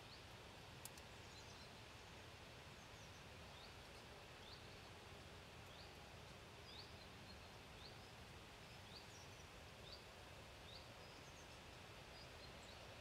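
Faint, steady outdoor background hiss with a small bird's short, high, rising chirps repeating irregularly, about one a second, from a few seconds in until near the end. A single sharp click about a second in.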